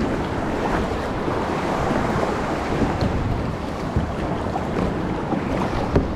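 Wind buffeting the microphone over the wash of sea swell around a kayak, with a few brief taps or splashes along the way.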